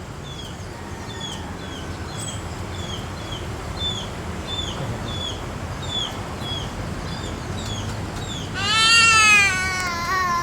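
Small birds chirping over and over, short high falling chirps about one to two a second. Near the end a louder, long wavering animal call lasts about two seconds.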